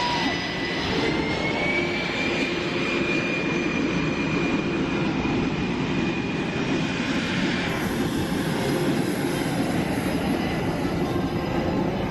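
Aircraft engines running with a steady roar and a high whine that rises slightly about a second in; a second, higher whine joins near the end.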